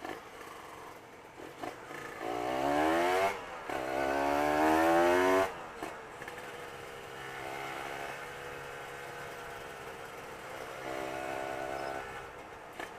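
Motorcycle engine accelerating hard, revving up in pitch through one gear, dipping briefly at the shift and climbing again before the throttle closes about five and a half seconds in; it then settles to a steadier, quieter cruise.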